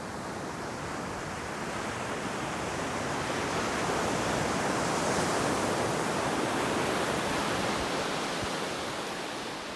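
Ocean wave breaking and washing up the beach: a steady rush of surf that swells to a peak midway and then slowly recedes.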